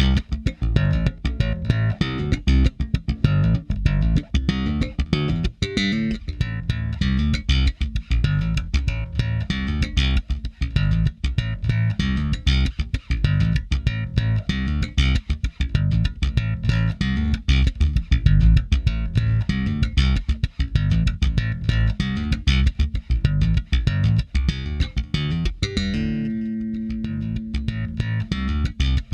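Electric bass guitar playing a busy plucked riff, run through a tube channel-strip plugin for warmth and saturation. Near the end the riff stops and one note rings for a couple of seconds before the playing starts again.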